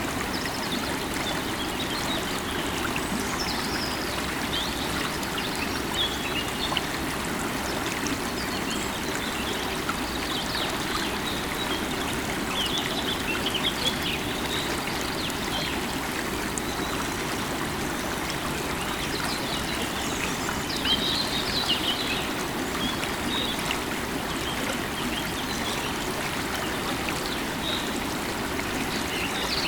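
River water running steadily, with birds chirping and twittering on and off above it, busiest in the middle and later part.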